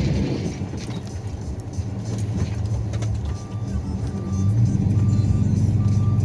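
Snow-plow truck engine running, getting louder about halfway through as it works, with short high beeps repeating from about three seconds in.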